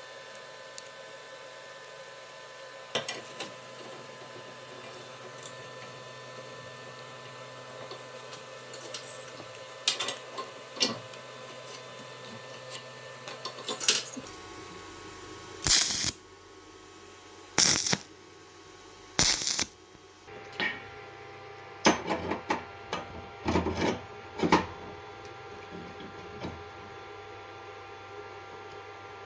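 Scattered metallic clinks and knocks of metal parts being handled and set down, coming in a cluster in the second half. Under them runs a steady hum.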